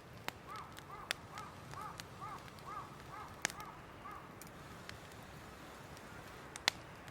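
A bird calling outdoors in a quick run of about eight short, arched, pitched notes, roughly two a second, that stops about four seconds in. A few sharp cracks sound over it, the loudest near the end.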